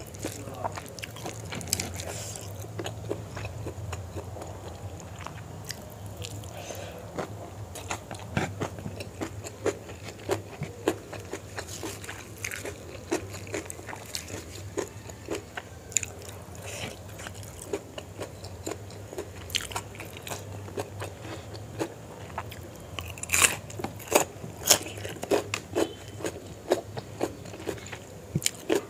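Close-up chewing and biting of chicken liver and gizzard curry with rice: wet mouth clicks and soft crunches throughout. Several louder, sharper crunches come about 23 to 25 seconds in.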